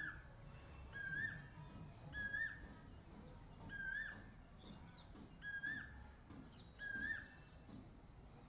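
A cuckoo calling faintly, one short rising-then-level note repeated about six times, roughly every second to second and a half.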